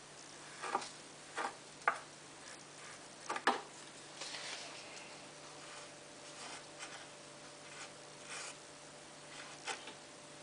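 Scattered light clicks and taps with faint rustling: hands handling detergent containers and the washing machine's plastic dispenser drawer.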